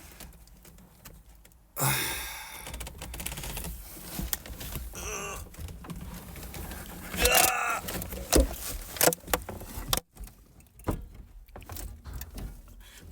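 Scattered clicks, knocks and rustling of hands working inside a car's interior, feeling for a latch behind the rear seat area.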